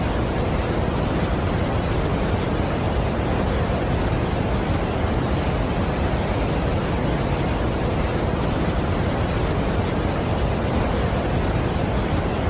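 Steady rush of a large waterfall: a dense, even wash of noise, heaviest in the low end, with no breaks or changes.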